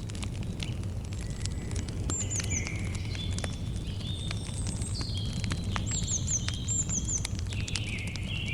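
Campfire crackling, with frequent sharp pops over a low steady rumble. Birds call over it: short whistled notes at changing pitches and a few quick high chirps in groups of two or three.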